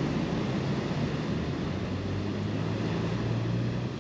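A vehicle engine running with a steady low hum that drops slightly in pitch a few seconds in, over a wash of wind and surf noise.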